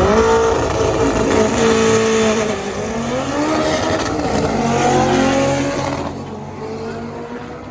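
Drag cars accelerating hard down the strip, engines revving up, dropping in pitch at a gear change about two and a half seconds in, then climbing again before fading away into the distance.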